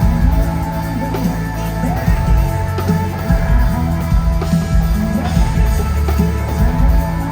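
Live country-pop band playing loud through a concert PA, with guitars, bass and drums under a sung vocal line.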